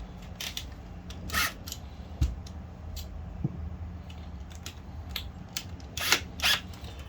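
Small clicks and scrapes of septic aerator pump parts being handled and fitted together during reassembly, a few louder scraping clicks among them, over a steady low hum.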